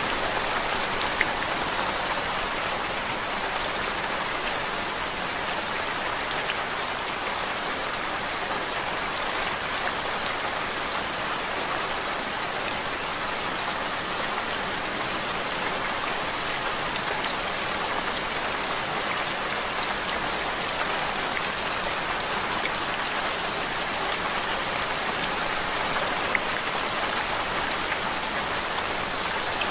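Steady rainfall: an even hiss with faint scattered drop ticks, unchanging throughout.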